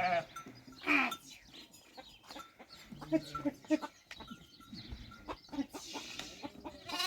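Chickens clucking in short, soft, scattered calls, with one louder, brief, falling call about a second in.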